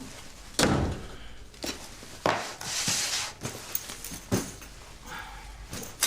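A handful of sharp knocks and clatters of small objects handled in a room, with a short hissing rush about three seconds in.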